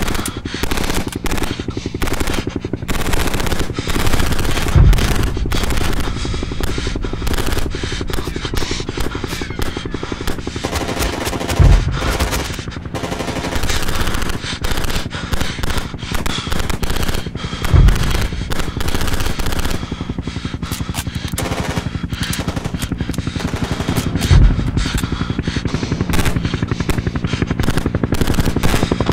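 Sustained automatic gunfire, a dense rapid crackle of shots, with a heavy low thud about every six to seven seconds.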